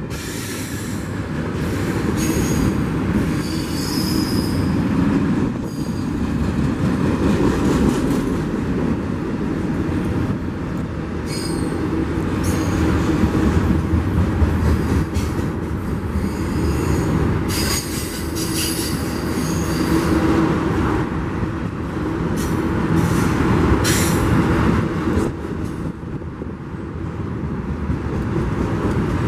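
Union Pacific double-stack container freight cars rolling past on the rails, a steady heavy rolling noise of wheels on track. Short high wheel squeals come now and then, along with a few sharp rattling clanks.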